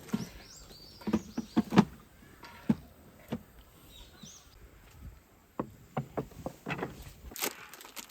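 Irregular short knocks and clicks of objects being handled and set down, with a cluster of sharper knocks near the start and more scattered ones later.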